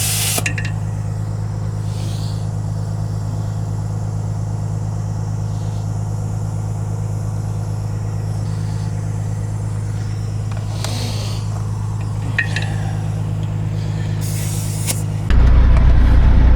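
Kenworth W900 semi truck's diesel engine idling steadily, with a few short hisses. Near the end the sound jumps suddenly louder and deeper.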